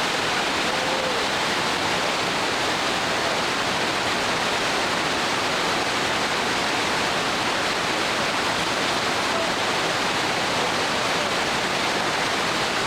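River rapids: fast water rushing over rocks in a steady, unbroken rush.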